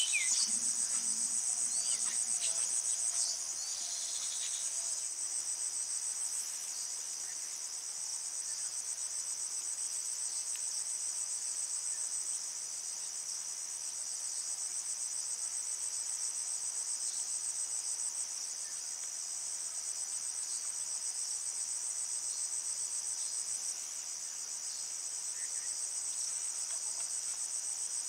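Steady, high-pitched chorus of insects trilling without a break, with a few faint bird chirps in the first few seconds.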